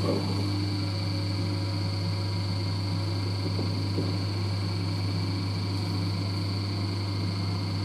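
LG DirectDrive washer dryer running its sensor-dry cycle: a strong low hum comes on right at the start and then holds steady, over a faint constant high whine.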